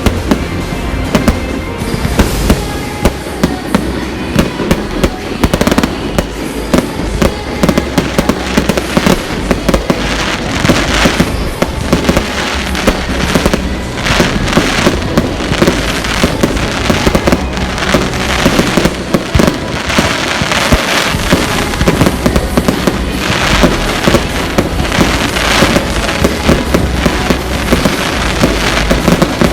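Fireworks display going off non-stop: a dense, rapid run of cracks and bangs, many overlapping reports every second with no pause.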